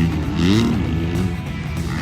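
Motocross bike engine revving, its pitch climbing and then dropping sharply about half a second in, then running steadier. Music plays along with it.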